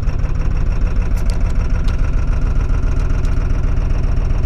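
Ford 7.3 Power Stroke V8 turbodiesel running rough and uneven just after a very cold start. The owner thinks it is not yet firing on all eight cylinders.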